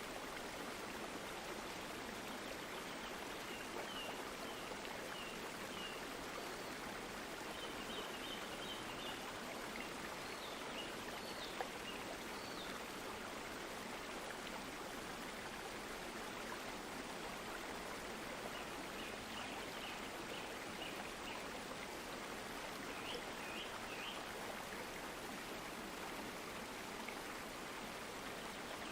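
Steady running water of a stream, an even rushing with no change in level. Faint short high chirps come in several small groups a few seconds apart.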